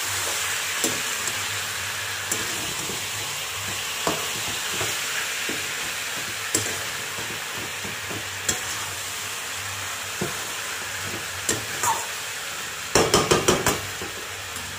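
Marinated chicken frying on high flame in a large aluminium pot: a steady sizzle, with the scrape and clack of a spatula stirring it against the pot. The meat is still frying dry, with no water released yet. Near the end comes a quick run of five or six loud knocks.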